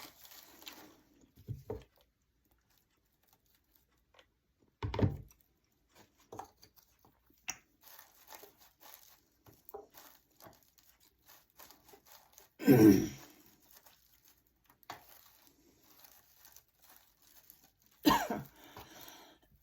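Sparse, soft crinkling and tearing of dry craft hay being handled and pressed into place, with a few louder short sounds about 5 and 13 seconds in.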